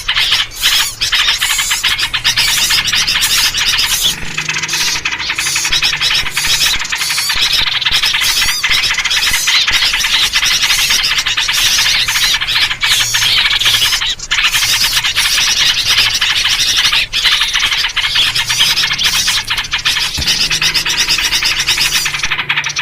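A loud, dense chorus of agitated small birds chattering and scolding without a break, a noisy alarm-type lure call among which yellow-vented bulbul (trucuk) calls are mixed.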